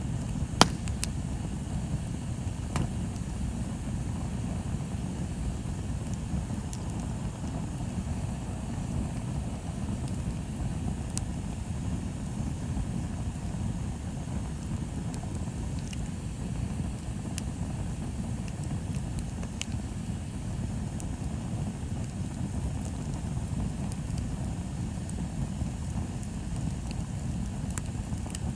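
Bonfire burning: a steady low rush, with scattered crackles and sharp pops. The loudest pop comes about half a second in.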